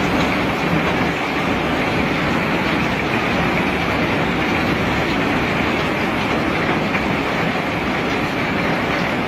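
Steady rattling rumble of rock being unloaded in bulk, running at an even level throughout.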